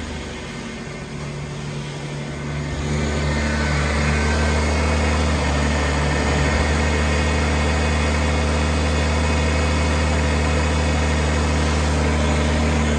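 A 2007 Toyota Highlander's 3.3-litre V6 engine running. It picks up speed about three seconds in and then holds steady at the higher speed.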